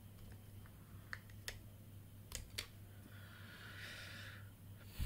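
Faint handling noise of small parts on a table: a few light clicks, then a short rustle, over a low steady hum, with a thump at the very end.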